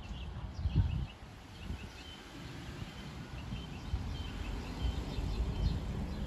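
Outdoor ambience of small birds chirping over and over. Under it is a low rumble on the microphone, loudest about a second in.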